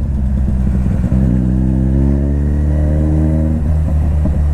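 Kawasaki Z900's inline-four engine pulling through a gear, its note rising steadily for a couple of seconds, then dropping at a quick gear change near the end.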